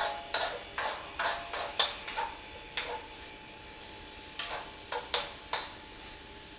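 A metal cooking utensil stirring food in a metal pan, clinking and scraping against it about a dozen times in an uneven rhythm, with a pause in the middle.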